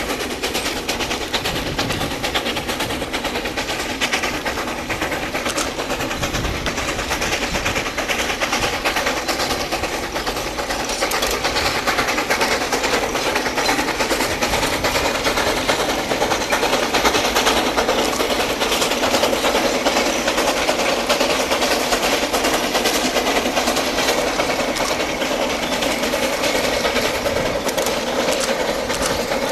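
Narrow-gauge C2 steam train running, a steady dense fast clatter that grows a little louder after about ten seconds.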